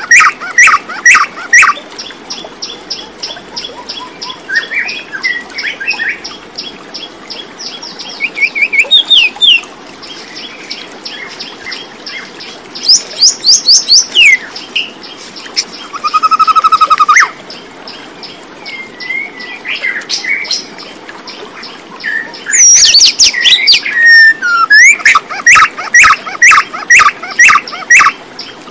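Several birds chirping and singing: runs of quick, sharp chirps and rapid trills, with a fast lower-pitched trill about halfway through.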